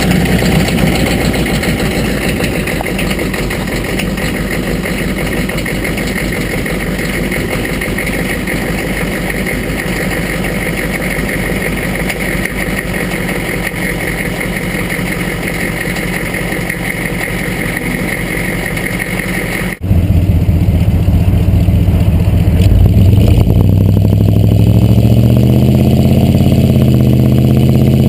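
Chevrolet 6.2 Detroit diesel V8 running just after a cold start, a steady rapid diesel clatter. About twenty seconds in, it switches abruptly to a louder, deeper exhaust note from the truck's stacks, and the engine speed climbs near the end.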